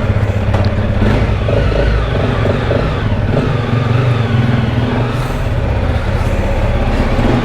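Honda CRF motorcycle's single-cylinder engine running steadily just after being started.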